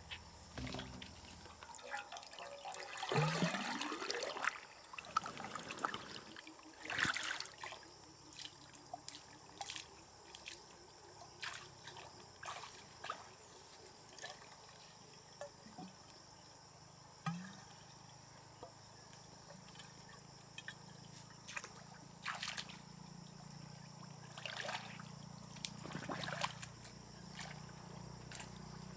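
Water trickling and dribbling, with scattered small clicks and knocks and a louder burst of water sound about three seconds in.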